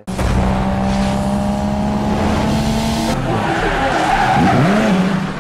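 Loud car sound effect for a logo intro: an engine held at a steady high note, changing about three seconds in, then rising and falling near the end.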